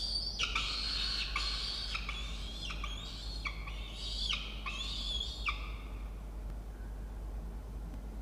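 Peregrine falcons calling at the nest: a run of about eight drawn-out, pitched calls, one straight after another, for the first five and a half seconds, then a lull.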